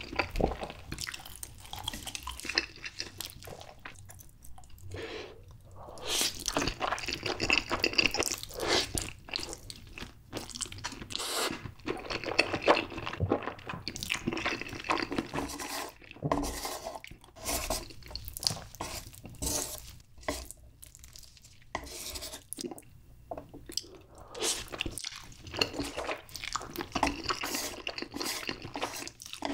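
Close-miked chewing and wet mouth sounds of a mouthful of Spam and spicy stir-fried noodles being eaten, coming in irregular clusters with short pauses between.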